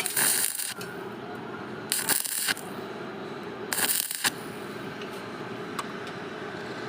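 Three short bursts of arc welding on a steel pillar, each about half a second of hissing arc, spaced roughly two seconds apart, over a steady hum.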